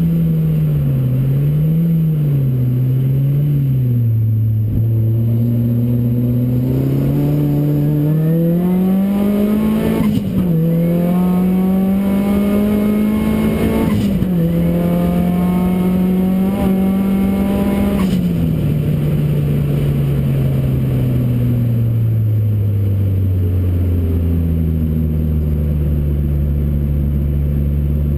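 Ford Racing Puma's modified Focus RS engine pulling hard, with two sudden drops in pitch where it changes up a gear. It then comes off the throttle, and the engine note falls away to a low, steady run near the end.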